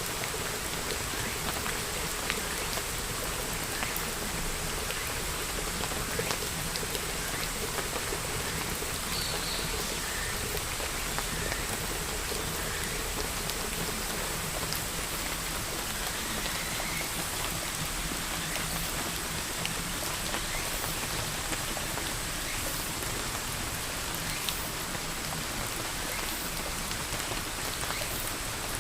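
Steady rain falling: an even hiss with scattered sharper ticks of individual drops.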